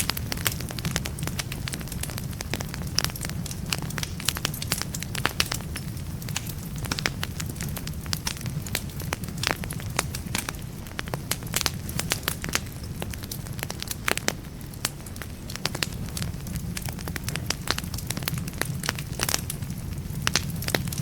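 Wood fire burning in a fireplace, crackling steadily with frequent irregular sharp pops over a low, even rumble of the flames.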